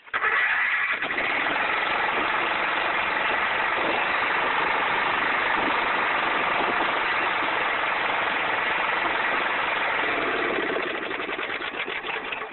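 A 12 hp single-cylinder Briggs & Stratton riding-mower engine on its stock exhaust, started and running steadily. The sound sets in abruptly at the outset and gets somewhat quieter for the last second or two.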